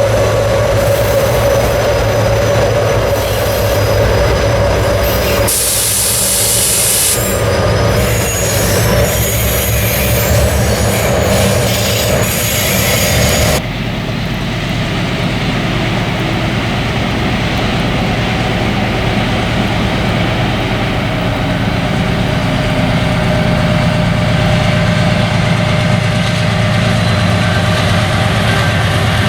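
Freight train wagons rolling past on the rails, a steady heavy rumble with high-pitched wheel squeal through the middle that cuts off abruptly about halfway through.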